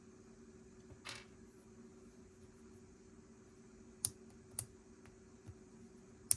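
Lego bricks being handled and snapped together: a short rustling scrape about a second in, then a few sharp plastic clicks over a faint steady hum.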